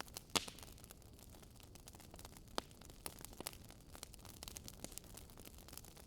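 Faint crackling of a wood fire over a low hiss: small irregular pops and snaps, with a sharper pop about a third of a second in.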